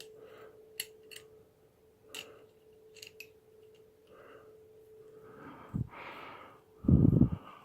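A few light metallic clicks from small clutch parts being handled as a washer is worked off the clutch shaft, over a faint steady hum that fades out about five seconds in. Then comes a breathy rush and a loud dull thump near the end.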